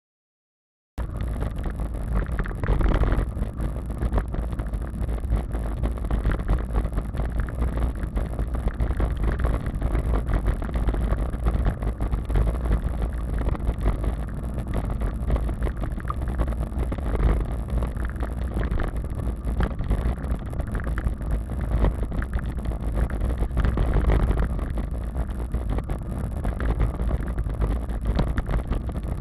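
Wind rumbling on the microphone of a camera carried on a moving bicycle, with steady riding noise. It starts suddenly about a second in.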